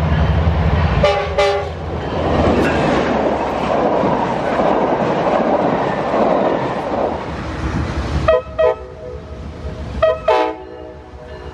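Metrolink commuter train sounding its horn about a second in, then its bi-level coaches passing close with a steady rush of wheels on rail. Near the end a diesel locomotive's horn gives four short blasts in two pairs.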